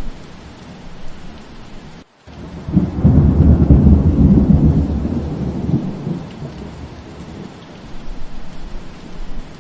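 Steady rain with a clap of thunder: a loud low rumble swells about three seconds in and fades away over the next three seconds. Just before it, the rain cuts out for a split second.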